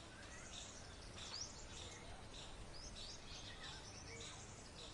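Faint chorus of small birds chirping and twittering: many short, high chirps and quick up-sweeping whistles over a low background hiss.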